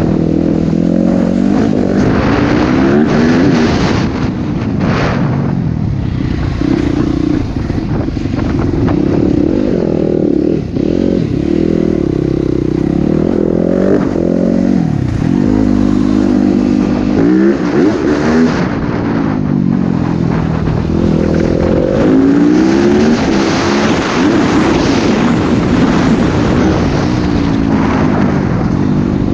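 Motocross dirt bike engine run hard, revving up and dropping again and again as it accelerates and slows; the pitch climbs in sweeps every few seconds, then falls away.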